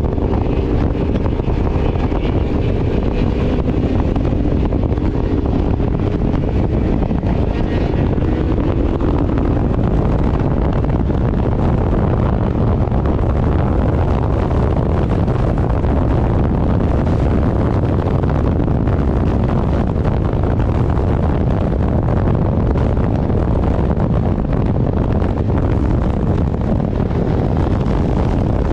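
Steady loud wind buffeting the microphone of a motorcycle at riding speed. The engine's note can be picked out at the start, then sinks under the wind.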